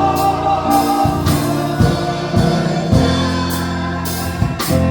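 Live gospel music: a choir holding sung notes over organ or keyboard, bass and a drum kit keeping the beat.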